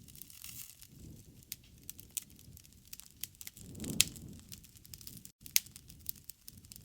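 Wood campfire crackling with irregular sharp pops over the low rush of the flames. One pop about four seconds in is the loudest.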